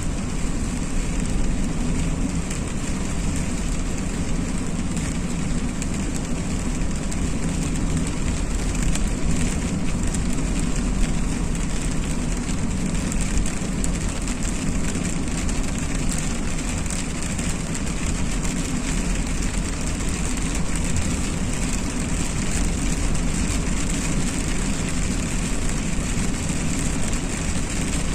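Steady road and engine noise of a car driving through rain, with rain hitting the car.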